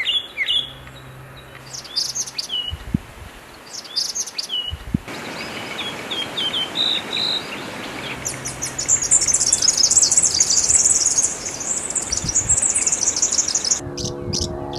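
Birds chirping and calling in a few separate recordings: short high chirps at first, then dense high-pitched twittering from about 8 to 11 seconds in.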